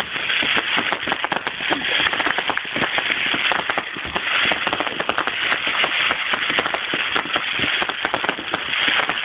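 Fireworks crackling: a dense, continuous rattle of many small rapid bangs with no pause.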